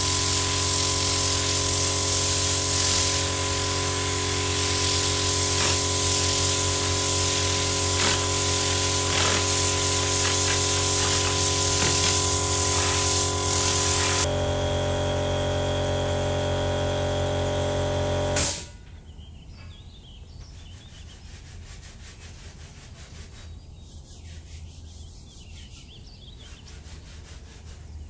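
A small motorised hand tool runs steadily, with a change in its pitch about 14 seconds in. It is switched off suddenly about 18 seconds in, leaving only a low hiss.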